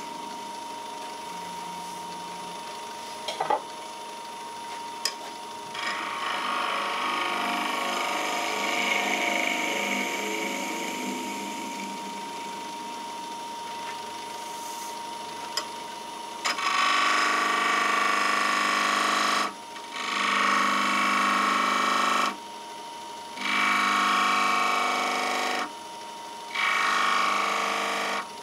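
Wood lathe running while a turning tool or abrasive is worked against the spinning pine workpiece. In the second half it comes in loud passes of about two to three seconds each, with short breaks between them.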